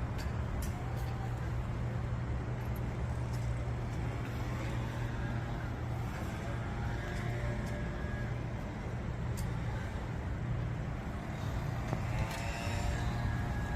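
Steady low rumble of road traffic, with a few faint higher sounds over it.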